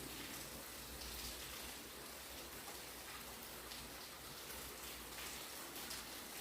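Steady heavy rain falling, with the patter of drops landing on surfaces.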